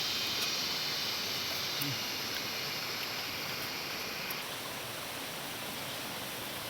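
Steady rushing noise of flowing water, easing slightly, with a high hiss that drops away about four seconds in.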